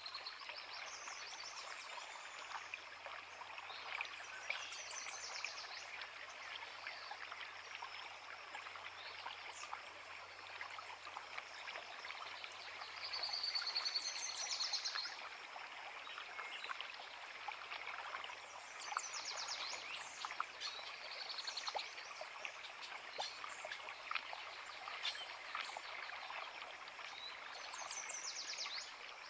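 A creek runs steadily throughout, with songbirds singing short high phrases over it every few seconds. The loudest phrases come about halfway through.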